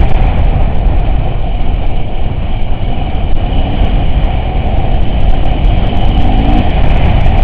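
Off-road vehicle driving, a loud, steady rumble that is heaviest in the low end.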